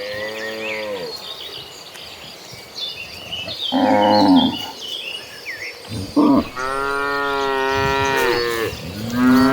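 Cattle mooing: a call trails off in the first second, a short loud moo comes about four seconds in, and a long drawn-out moo runs from about six seconds to near the end, with another beginning just as it closes.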